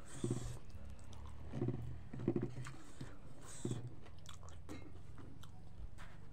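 Chewing and mouth sounds of a person eating rice with her fingers, in several short bursts about a second apart.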